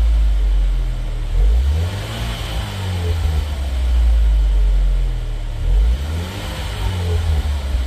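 2015 Ford Focus MK3 2.0 four-cylinder engine with a full aftermarket exhaust (header with metal catalyst, mid muffler, dual centre-exit tailpipes) being revved several times, its deep exhaust note rising and falling in pitch between blips.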